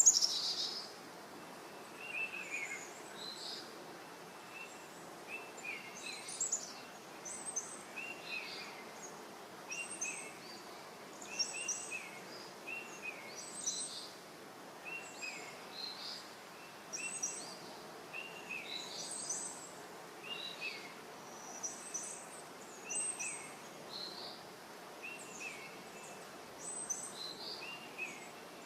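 Small birds chirping: short, high chirps repeating every second or two over a faint steady hiss, with a louder, sharp high call right at the start.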